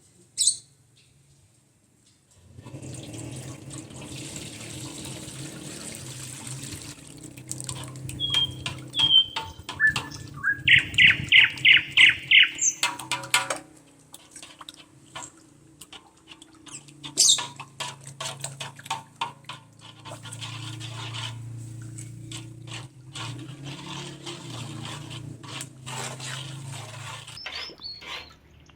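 Water running steadily, as from a tap into a basin, starting suddenly early on and stopping near the end, with knocks and clatters of handling. Birds chirp over it, loudest in a quick trill of about eight notes in the middle.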